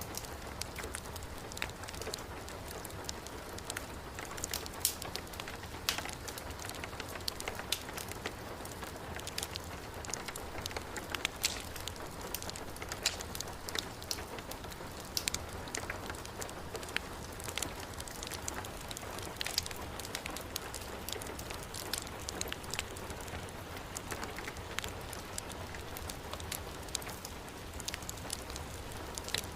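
Heavy rain falling steadily, mixed with a wood fire's frequent irregular sharp crackles and pops, over a low steady rumble.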